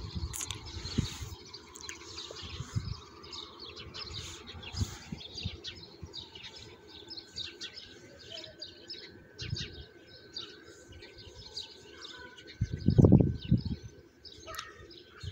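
Small birds chirping repeatedly with short high calls, and a faint steady high tone through the second half. A brief low rumble near the end.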